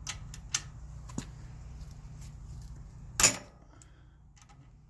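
Metal clicks of a socket and ratchet being worked on a generator's oil drain plug, then one loud sharp metallic knock about three seconds in.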